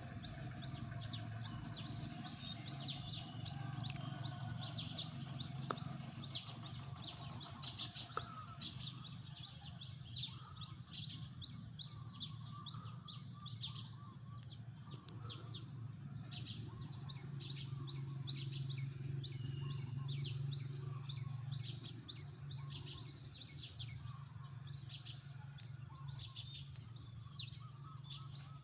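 Many small birds chirping together in a continuous chatter of short, high, overlapping chirps, over a steady low hum.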